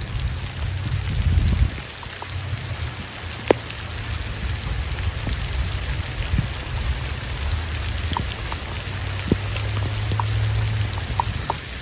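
Rain falling: scattered drops ticking sharply, one louder than the rest about three and a half seconds in, over a steady hiss and a low rumble.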